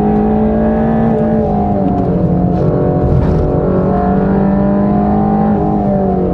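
Mercedes-AMG GT Black Series twin-turbo V8 running hard on track at high revs, its pitch holding fairly steady with small steps, then falling near the end as the revs drop.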